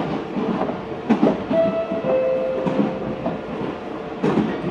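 Running sound of a Meitetsu 4000-series electric train heard from inside the car: a steady rumble with wheels clicking over rail joints. Two brief steady tones sound together for about a second in the middle.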